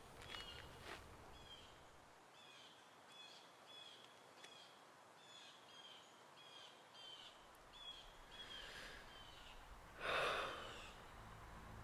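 Faint outdoor bush ambience with a bird repeating a short high chirp about twice a second. A brief soft rush of noise comes about ten seconds in.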